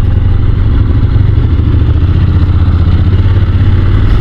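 Honda NC750 DCT's parallel-twin engine running steadily while the motorcycle is ridden along, a constant low engine drone with road and wind noise over it.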